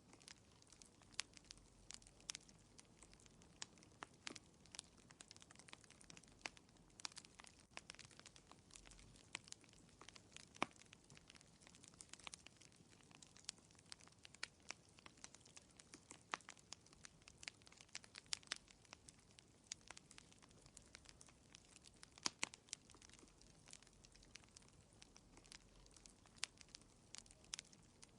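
Wood fire crackling quietly: irregular sharp pops and snaps, several a second, over a faint steady hiss.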